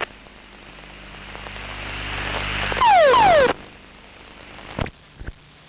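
Cockpit recording as the crew ejects. A rushing noise builds for about three seconds, then comes a loud half-second burst carrying two falling whistles. After that it goes quieter, with two short clicks near the end.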